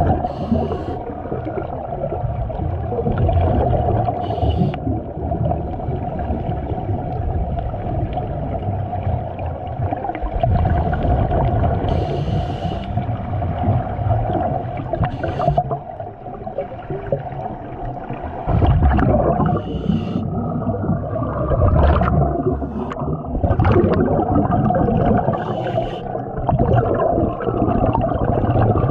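Underwater sound picked up by a submerged camera: muffled water rushing and bubbling, with a steady hum underneath and short bubbly hisses every few seconds.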